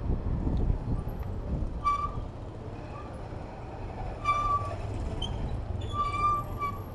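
Low rumble of city traffic and wind, with three short high-pitched vehicle horn beeps, about two seconds in, halfway through and near the end.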